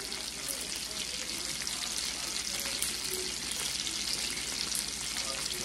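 Stuffed burger patties frying in their grease in a nonstick skillet: a steady sizzle with light, scattered crackles.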